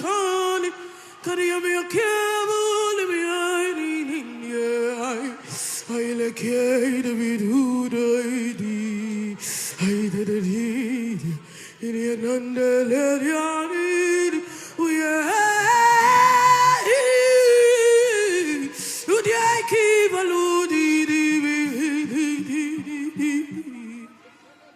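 A woman's voice singing a slow, largely unaccompanied worship chant, gliding between long held notes, swelling loudest a little past the middle and fading out near the end.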